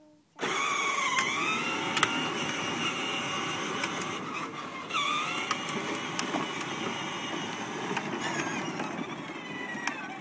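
A vehicle's motor starts up suddenly about half a second in and keeps running. Its whine dips and climbs in pitch twice, with a few sharp clicks along the way.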